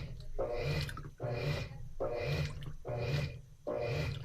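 Top-loading washing machine with a central agitator, agitating the wash: the motor hums in regular back-and-forth strokes a little under a second apart, with water swishing on each stroke.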